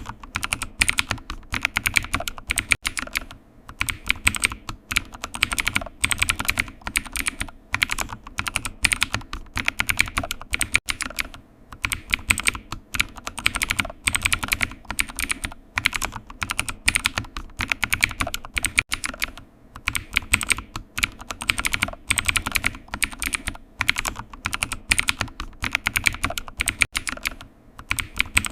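Computer keyboard typing: rapid runs of keystrokes with a few short pauses between them.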